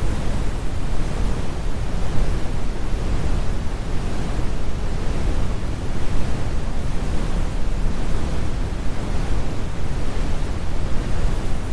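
Steady, deep brown noise: a continuous rumbling hiss weighted heavily to the low end, with the high frequencies rolled off.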